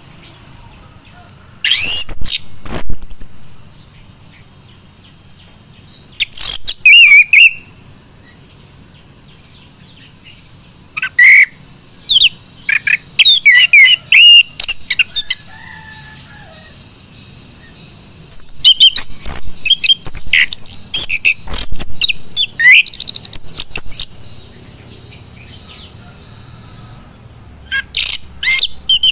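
Male chestnut-capped thrush (anis kembang) singing loudly in separate bursts of quick, high, warbling and chattering notes, with pauses of a few seconds between the phrases.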